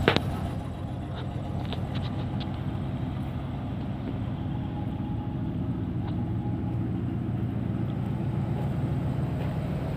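1978 GMC Vandura motorhome's V8 gasoline engine idling steadily just after a cold start, its first run after sitting a month.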